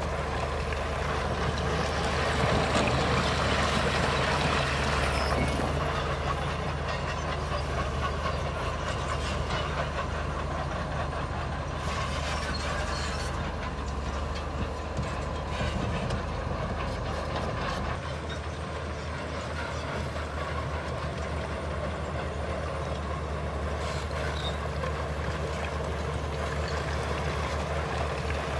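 Heavy diesel earthmoving machinery running steadily: a low engine hum under broad rumbling noise, with a brief louder rush of noise about twelve seconds in.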